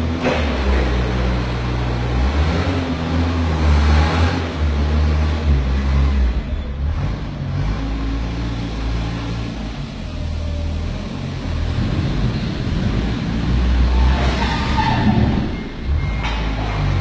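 Forklift engine running and revving, its pitch rising and falling as it works, with louder noisy swells about four seconds in and again near the end.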